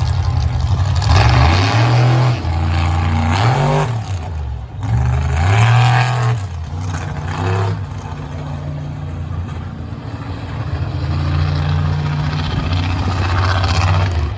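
Monster truck engine revving hard in two surges, its pitch rising and falling over the first seven seconds or so. After that it runs at a steadier, lower pitch that climbs slowly again near the end.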